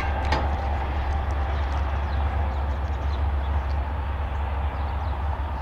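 FRA safety train running on the line: a steady low rumble with rail noise, slowly getting quieter.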